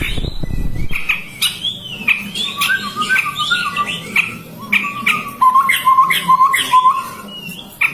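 Chestnut-rumped babbler (tepus tunggir merah) calling: runs of short whistled notes on one pitch mixed with quick chattering and gliding notes. A brief low rumble at the very start.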